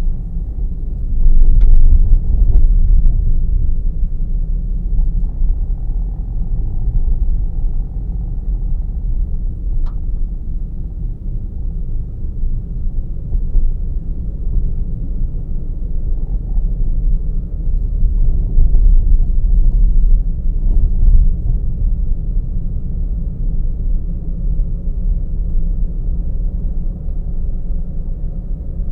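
A car driving along a road, recorded from on board: a steady low rumble of road and engine noise, with a few faint clicks.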